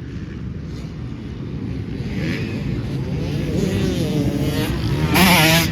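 Dirt bike engines revving and changing pitch as riders go round a motocross track, one bike getting louder and loudest near the end as it passes close.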